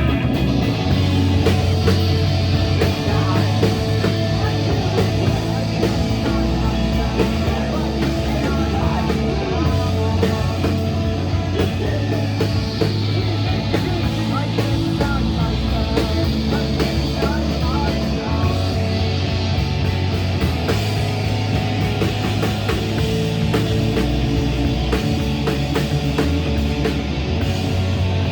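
Rock band playing live: guitar over heavy bass and a steady beat.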